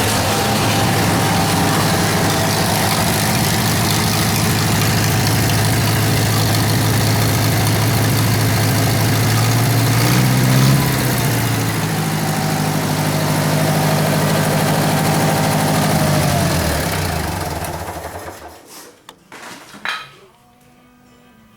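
Air-cooled Wisconsin VH4D V4 engine of a 1947 Lincoln SA-200 welder running steadily; its speed rises briefly about halfway through and settles back. Near the end it winds down and stops, followed by a few clicks.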